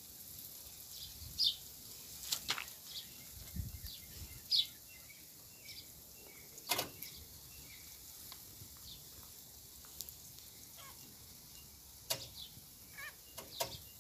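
Quiet garden ambience with birds giving short, scattered high chirps and a few sharp clicks or rustles.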